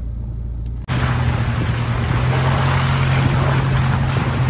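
4WD vehicle engine running with a steady low drone. About a second in, a louder, steady rushing noise sets in over the engine hum.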